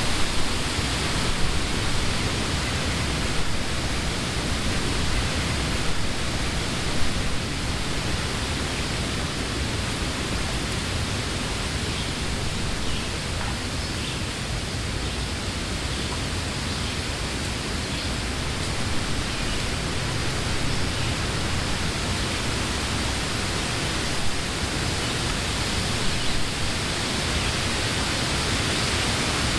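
Wind blowing through summer trees: a steady rush of wind in the leaves, with a few brief louder swells in the first several seconds.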